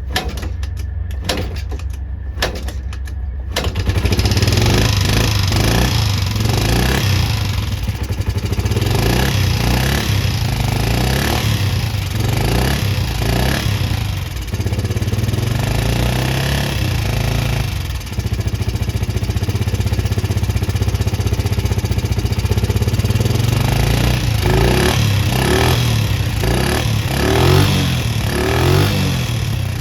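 Small engine of a 2011 Can-Am DS90 youth ATV running just after being brought back to life. It runs low and uneven for the first few seconds, then is revved up about four seconds in and kept going with repeated rises and falls in revs and a brief sag midway, as the throttle holds it from stalling.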